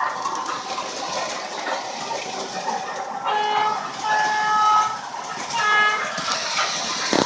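Lionel R16 subway model train running on its track, a steady rumble of wheels and motor, with the set's sound system blowing the horn: one blast of about a second and a half, then a short second toot.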